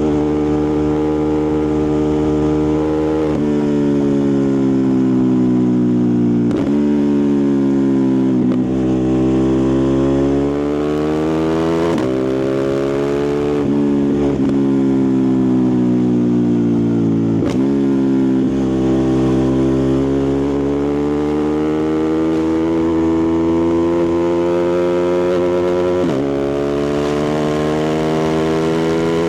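Ducati Multistrada 1260 Pikes Peak's 1262 cc Testastretta V-twin engine and exhaust running steadily, its note sinking and climbing in pitch with several abrupt breaks along the way.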